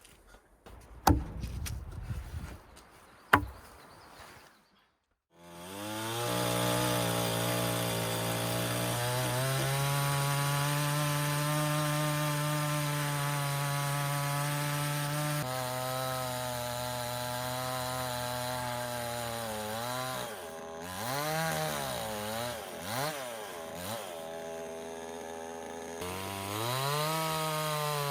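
Small engine running fast and steady, its pitch dipping and recovering several times as if under load, then rising again near the end. Before it starts there are two sharp knocks.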